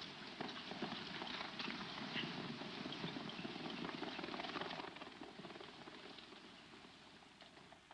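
Horses' hoofbeats, a fast clatter of hooves on dirt, fading away after about five seconds as the riders move off.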